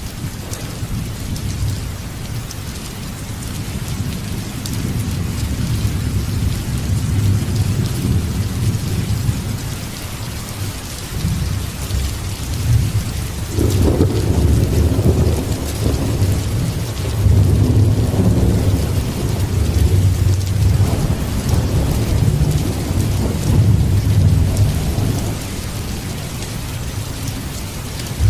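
Steady heavy rain with low rolling thunder; a louder peal breaks in about halfway through and rumbles on, swelling again several times.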